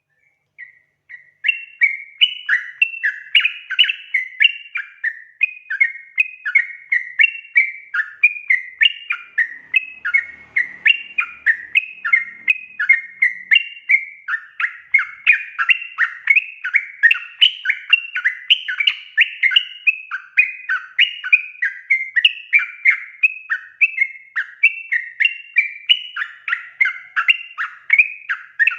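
Yellow-vented bulbul calling in a fast, unbroken run of bubbly chattering notes, the excited song bird keepers use as a lure. It starts about a second and a half in.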